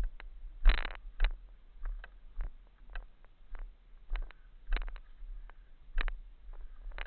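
Mountain bike rattling and knocking over a rough, rocky trail: irregular sharp knocks and clicks, one or two a second, the loudest about a second in, over a low rumble.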